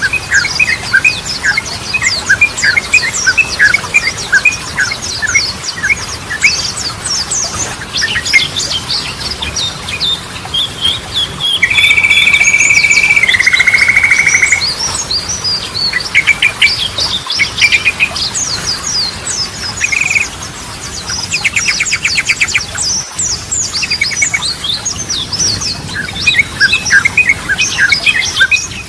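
Yellow-vented bulbul (trucukan) song: a dense, rapid run of chirps and chattering notes. About twelve seconds in comes a long loud whistle held on one pitch, which then steps down and holds a lower note for a few seconds more. Later there is a short buzzy trill.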